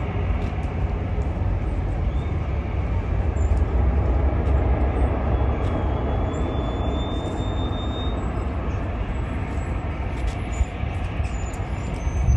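Steady roar of jet airliner engines with a deep rumble, swelling slightly about four seconds in.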